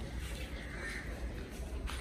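Faint bird calls over a steady low rumble, with a single sharp click near the end.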